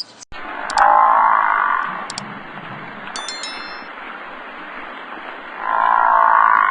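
An animal calling twice, each call a loud pitched cry about a second long, with a brief ringing ding between them.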